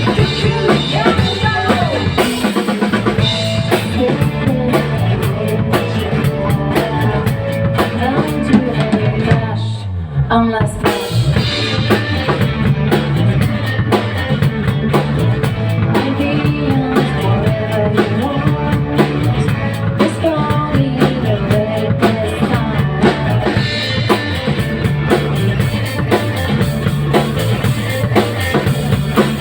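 Band playing live rock music: drum kit, bass and guitar with singing, steady and loud, with a short break about ten seconds in before the full band comes back.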